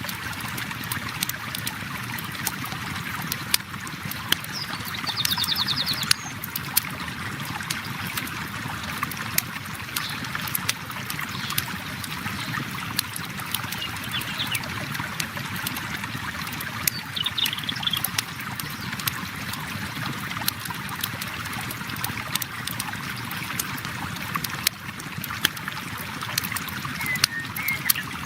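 A river flowing steadily, with a campfire crackling in frequent sharp pops over it. A short high trill about five seconds in, and another near seventeen seconds.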